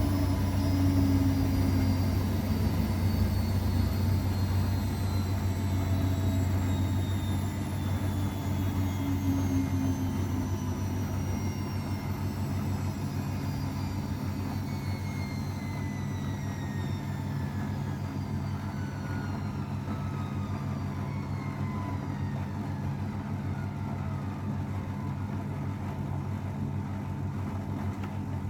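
AEG Öko_Lavamat 693 washing machine with its drum coasting down from a spin: a whine that falls slowly in pitch over a steady low hum.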